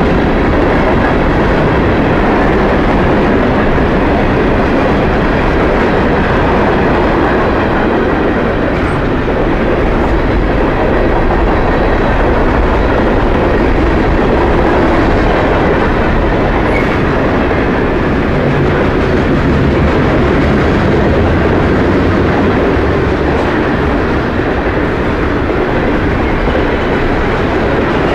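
Freight cars of a passing train rolling by close to the track: a loud, steady rumble of steel wheels on rail.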